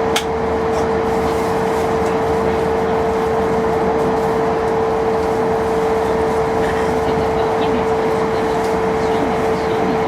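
Hokkaido Shinkansen train running at speed, heard inside the passenger cabin: a steady rushing noise with a steady hum tone under it, and a single click just after the start.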